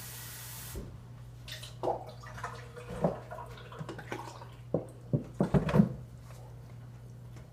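Wet chewing and lip-smacking mouth noises: a run of short smacks, loudest about five to six seconds in, over a steady low electrical hum. A hiss cuts off suddenly under a second in.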